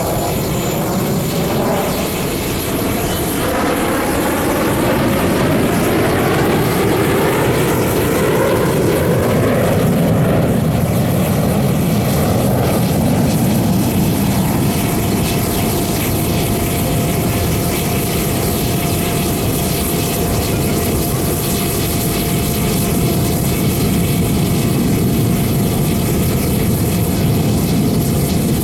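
Jet fighters of a military aerobatic team flying a display, a loud steady jet roar with a gliding whine as the aircraft pass, changing in pitch for several seconds early on.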